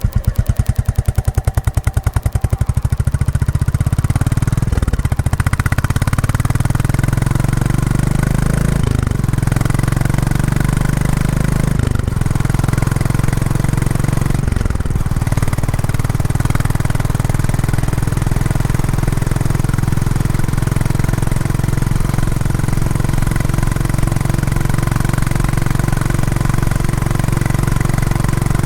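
Royal Enfield Classic 350's single-cylinder engine through its stock exhaust, pulsing at low revs near the start, then dropping briefly in note at about 5, 9, 12 and 15 seconds as the gears change up, and settling into a steady cruise. The engine is new and being run in.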